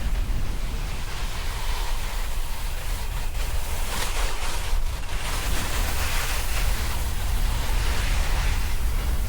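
Wind buffeting the camera's microphone, with the hiss of a snowboard sliding and carving over snow. The rumble is steady; the hiss swells and eases with the turns.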